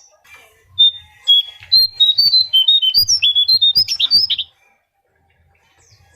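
A konin songbird singing a rapid run of short, clear whistled notes that jump between pitches, starting about a second in and breaking off after about three and a half seconds.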